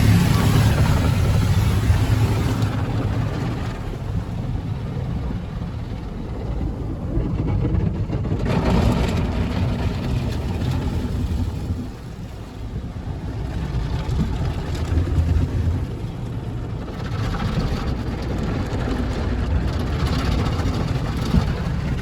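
Tommy's Express tunnel car wash working over a car, heard from inside the cabin: a continuous wash of spraying water and moving equipment against the body, swelling and easing in surges over a steady low rumble.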